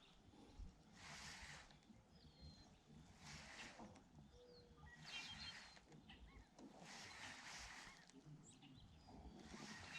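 Faint bird chirps over a soft rushing noise that swells about every two seconds, with a low rumble underneath.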